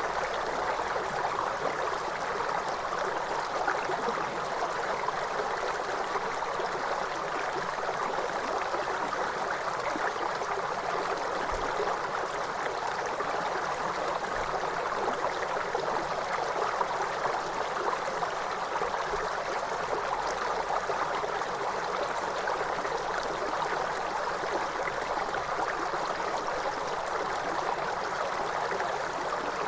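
Waterfall: a steady, unbroken rush of falling, splashing water that stays even throughout.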